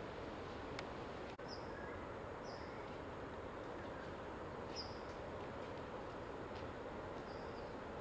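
Outdoor ambience of a meadow: a steady hiss with a small bird giving four short high chirps a second or two apart, and a brief dropout about a second and a half in.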